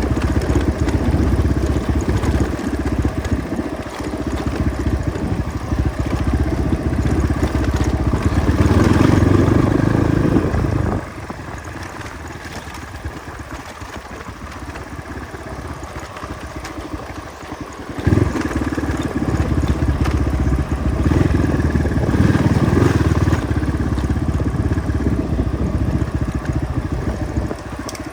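Motorcycle engine running on a rough off-road track. It drops off sharply about eleven seconds in, stays low for around seven seconds, then picks up again.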